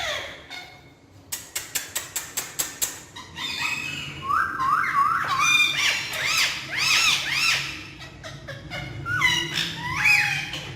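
Indian ringneck parakeets calling: short, sharp chirps that rise and fall in pitch, coming in quick runs of two to four. They start about three seconds in, after a rapid run of about a dozen clicks.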